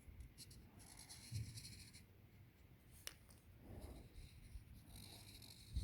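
Faint scratching of a pen on paper in two strokes, as an outline is traced around a shape, with a single light tick in between.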